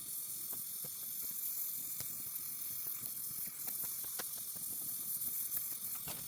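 Welding arc on aluminum hissing steadily, with scattered faint crackles.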